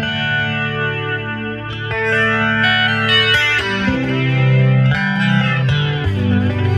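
Stratocaster electric guitar played on its bridge pickup through a clean amp setting with a touch of chorus: picked chords and single notes, each new chord ringing on over the last.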